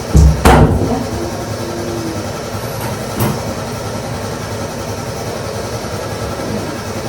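Two loud knocks right at the start and a lighter knock about three seconds later, over a steady background rumble.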